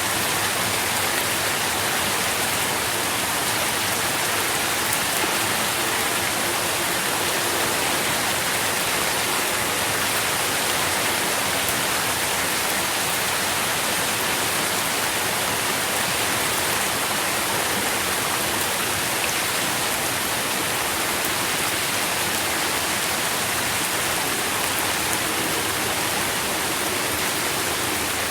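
Steady rain falling, an even hiss of drops with no changes or separate events.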